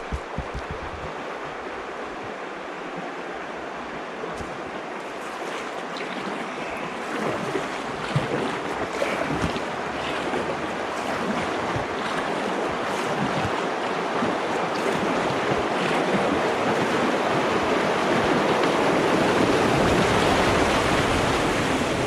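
Rushing river water, as at a fish pass or weir, growing steadily louder over about twenty seconds. A few sharp knocks come at the start.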